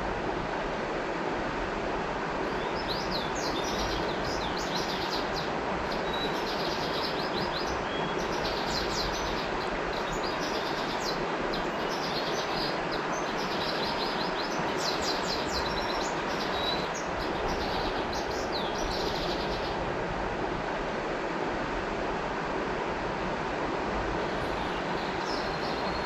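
River water flowing in a steady rush, with a small songbird singing quick runs of high chirping notes from a couple of seconds in until about two-thirds through, starting again near the end.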